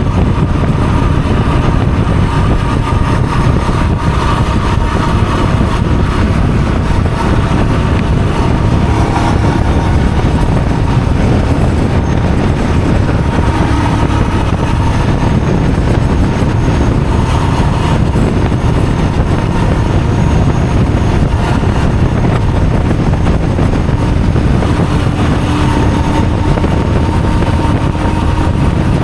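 Steady vehicle running noise: a loud, even low rumble with faint wavering tones above it.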